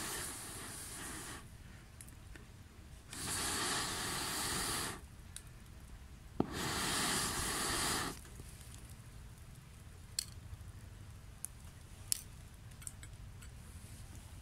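Three hissing bursts of about a second and a half each while a Swedish torch log is being lit, with a sharp click just before the third. Then a few faint, scattered pops as the wood begins to burn.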